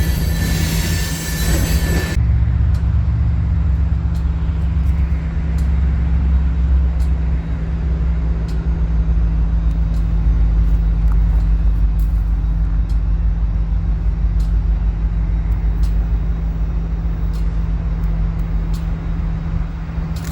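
A freight train's wheels and cars running loudly on the rails, cut off abruptly about two seconds in. Then a diesel locomotive's engine runs with a steady low hum and deep rumble, with scattered faint clicks.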